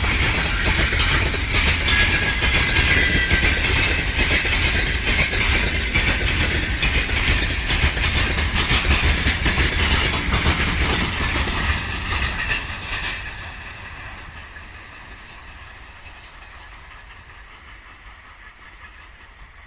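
Freight train rolling past at speed, its wagon wheels clattering over the rail joints. About two-thirds of the way through it fades over a couple of seconds as the train moves away, leaving a low steady background.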